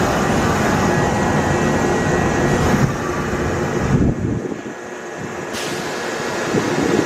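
Kintetsu Kyoto Line electric train running at the platform, a loud rumble of wheels on rail that falls away abruptly about four seconds in.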